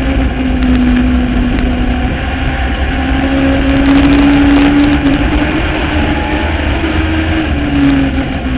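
Legends race car's Yamaha motorcycle engine running at race speed. Its note dips and climbs every few seconds as the throttle comes off and back on.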